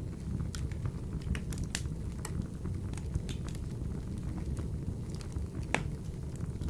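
Wood fire burning in a wood-burning stove: a steady low rush of flame with frequent sharp crackles and pops, the loudest pop a little before the end.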